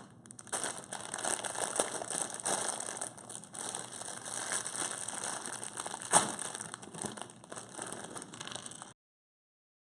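Plastic bags of LEGO pieces being handled: crinkling plastic with the small pieces rattling and clicking inside, one sharper click about six seconds in. The sound cuts off abruptly near the end.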